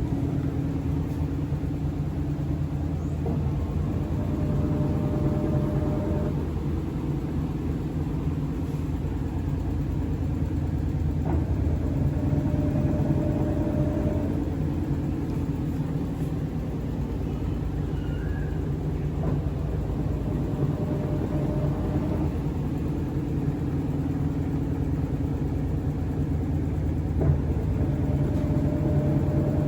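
Sharp ESX159 15 kg washing machine in its spin cycle: a steady low hum, with a faint higher whine that rises in for two or three seconds about every eight seconds.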